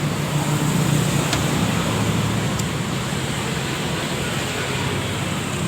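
Steady motor-vehicle engine hum over a wash of road-traffic noise.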